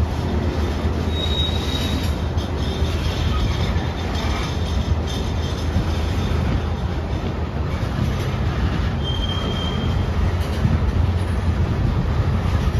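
Freight train of covered hopper cars rolling past, a steady rumble of steel wheels on rail. Two brief high-pitched wheel squeals come through, one about a second in and one near nine seconds.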